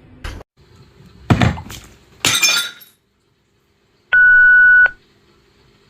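A knock and a heavy thud, then glass shattering with a high ringing crash. After a short silence comes a loud steady electronic beep lasting under a second.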